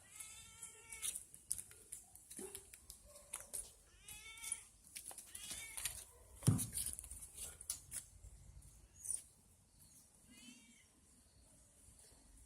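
Domestic cat meowing about four times, each an arching call, spread across the stretch. There is a sudden thump about halfway through and light scattered clicks.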